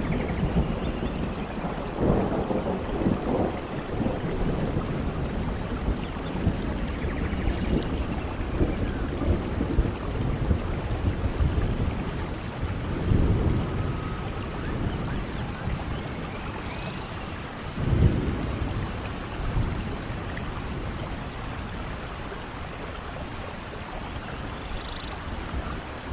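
Steady rain during a thunderstorm, with rolling thunder rumbling a couple of seconds in and again about halfway. A sharper thunderclap comes about two-thirds of the way through.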